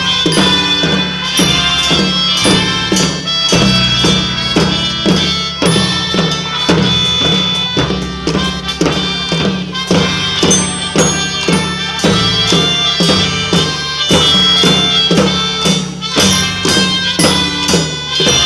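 Children's marching band playing live: a reedy wind-instrument melody over a steady drum beat.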